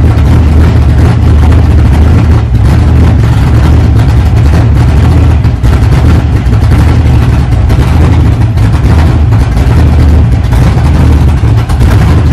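Freshly built, untuned LS V8 stroker engine running loudly at a lumpy idle, its big cam loping. The lines have just been corrected so that oil pressure holds.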